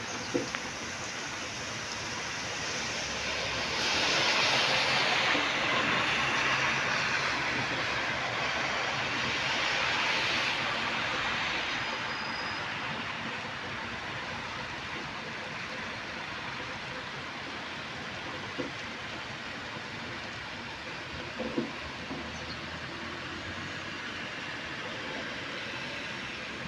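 Steady hiss of heavy rain. A louder swell of hiss rises about four seconds in and fades by about twelve seconds. A few faint knocks come near the start and later on.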